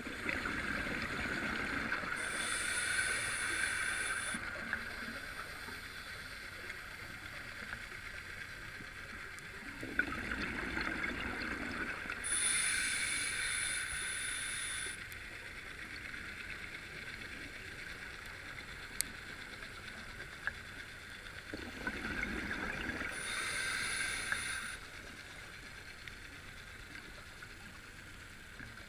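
Scuba diver's breathing through a regulator underwater: three breath cycles about ten seconds apart, each a gurgling rush of exhaled bubbles followed by a high hiss from the regulator, over a steady underwater hush.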